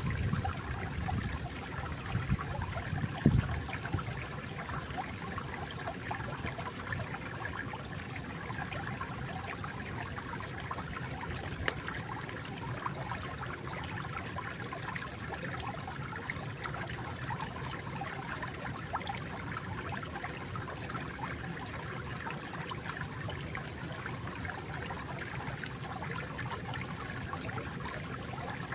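Small stream flowing and trickling steadily, with a few low splashes or thumps in the first few seconds, the loudest about three seconds in.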